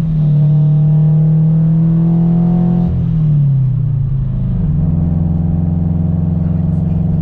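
Supercharged Subaru BRZ flat-four engine running hard at high revs through its catless header and single-exit exhaust. About three seconds in the revs fall away, and then it settles into a steady, lower drone.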